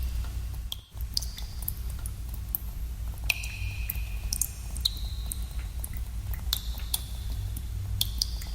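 Water drops falling into pools in a cave, echoing: irregular plinks, many with a short high ringing tone, over a steady low rumble. The sound briefly dips out about a second in.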